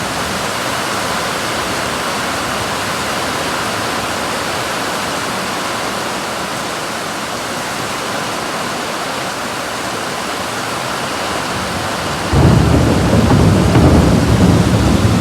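Heavy rain falling in a steady hiss during a thunderstorm. About twelve seconds in, a sudden loud low rumble of thunder breaks in and carries on over the rain.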